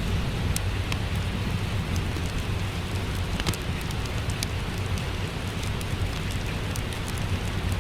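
Steady rain with a low rumble underneath, and a fire crackling, with scattered sharp pops and ticks throughout.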